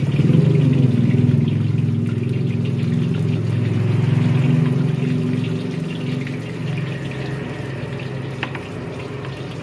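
Egg frying in hot oil in a steel wok, sizzling and crackling, over a loud low steady hum that fades in the last few seconds.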